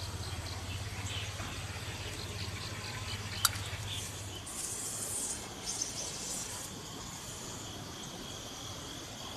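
Insects chirping in a ticking rhythm of about three ticks a second over a low hum that stops partway through. One sharp click comes about three and a half seconds in, followed by a short high hiss.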